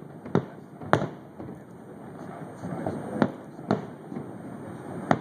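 Aerial firework shells bursting: five sharp bangs, two close together early, two more around the middle and one near the end, some trailing a short echo.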